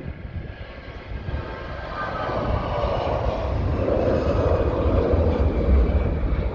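Jet airliner engines, a broad roar with a faint whine above it, growing steadily louder over several seconds.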